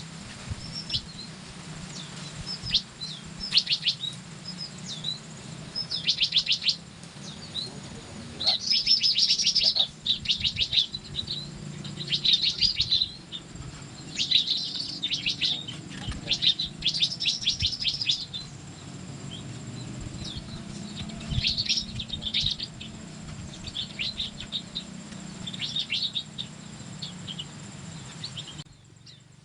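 Small songbirds calling in short, rapid, high chattering trills, one bout after another, over a steady low hum. All of it cuts off sharply near the end.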